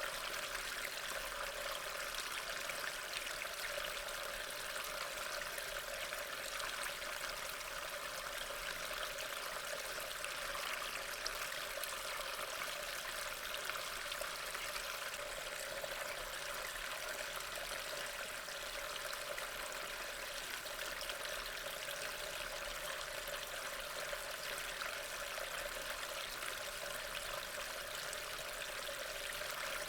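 Steady rain: an even, continuous hiss of falling water with no separate drops or thunder standing out.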